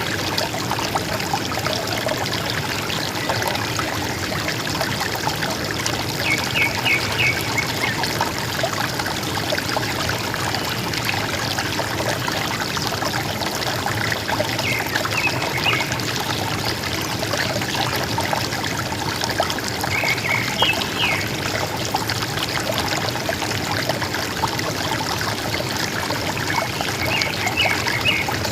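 River water flowing and gurgling steadily, with a bird singing short phrases of high chirps four times, roughly every six to seven seconds.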